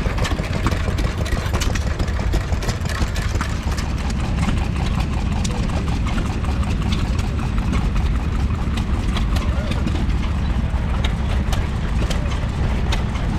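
Stationary engine running steadily, a continuous low running sound with frequent short sharp clicks over it.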